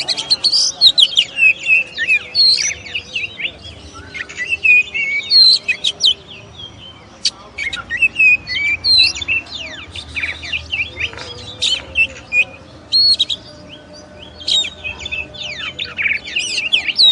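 Oriental magpie-robin (kacer) singing a rapid, varied song of whistles, chirps and quick sliding notes, with only brief pauses.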